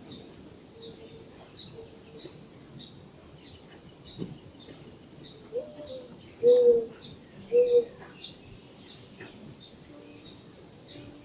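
Woodland birds calling: small birds chirp again and again, with a brief trill about three seconds in. Two louder, low, short calls come about six and a half and seven and a half seconds in.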